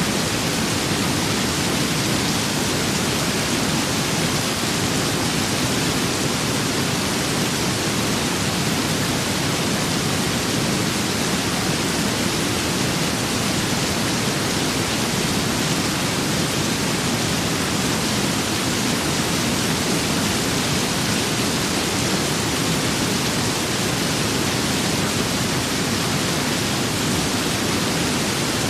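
Steady rain-and-wind storm ambience: an even, unbroken hiss with no single drops, gusts or thunder standing out.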